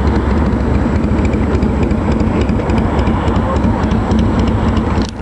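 Motorcycle engine running steadily with a low rumble, dipping briefly just before the end.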